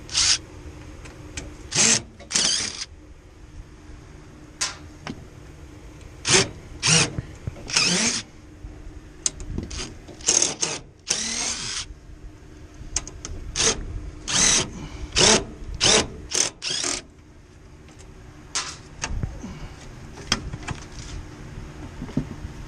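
Cordless power drill run in a series of short, irregular bursts, over a faint steady hum.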